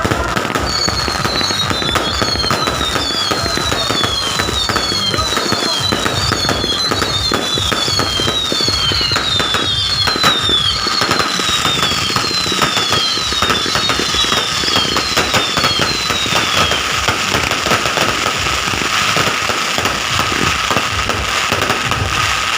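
Fireworks and firecrackers popping and crackling continuously. Many overlapping falling whistles run through the first two-thirds.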